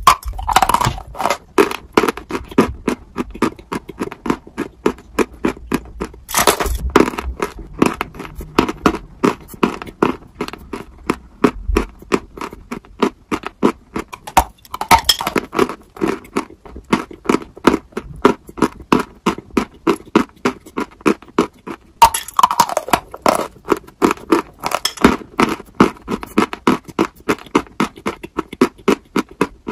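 Biting and chewing a dry, chalky white block: four loud, crisp bites, each followed by several seconds of rapid crunching chews at about three a second.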